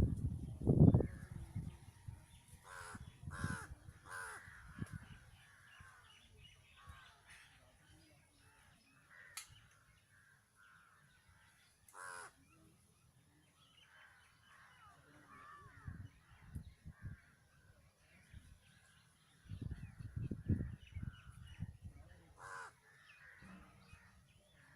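Crows cawing now and then, a few short calls at a time. Low rumbles and thuds sound near the start and again in the second half, the loudest about a second in.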